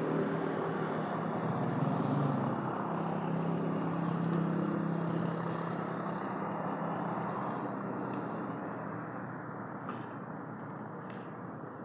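A vehicle engine running with a steady hum that slowly grows fainter.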